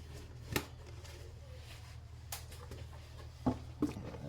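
A few short, sharp clicks and knocks of parts being handled while a battery box is fitted in a car's engine bay, over a steady low hum.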